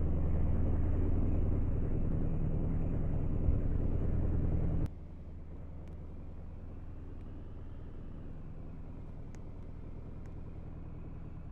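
Car engine running steadily with a low hum, which drops suddenly to a much quieter steady rumble about five seconds in.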